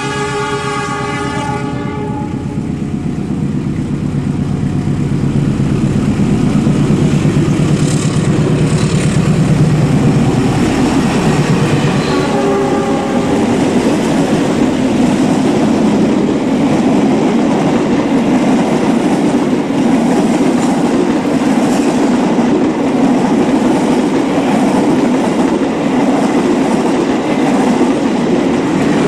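Indonesian diesel-electric locomotives passing a level crossing: a train horn sounds at the start and stops about two seconds in, and a shorter horn comes about twelve seconds in. Under and after the horns the locomotive engine and the train's wheels make a loud, steady rumble with rail clatter.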